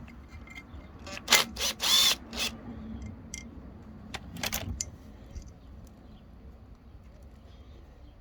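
Metal clinks and clanks of hand tools and small parts as the bottom of a Honda Izy lawnmower's carburetor, the float bowl, is opened: a cluster of sharp clanks about a second in and a shorter one around four seconds in.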